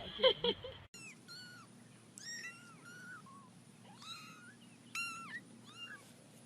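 Kitten mewing: a string of short, high, arching cries with pauses between them. A brief lower-pitched sound cuts off sharply just before the cries begin.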